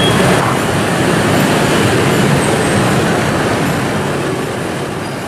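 Passenger train coaches rolling away along the rails: a steady rumble of wheels on track that slowly fades as the train recedes.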